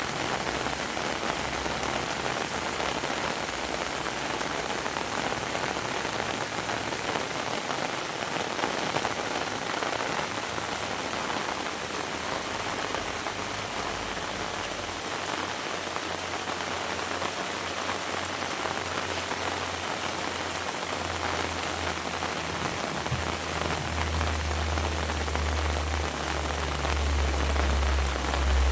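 Heavy rain falling steadily in a dense, even hiss. A low rumble comes in about halfway through and grows louder toward the end.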